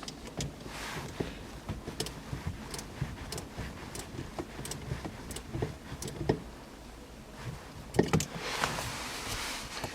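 Scattered light clicks and metallic taps of hand tools as a screw on the gear-shift lever support is tightened, with a few brief rustling swishes.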